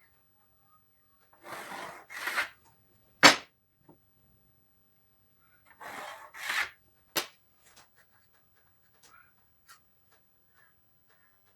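Two short rubbing or scraping strokes followed by a sharp knock, heard twice; a few faint ticks follow.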